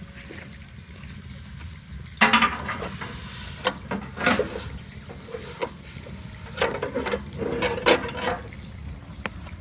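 Liquid sloshing and being stirred in a cooking pot, in short noisy spells about two seconds in and again from about six and a half to eight seconds.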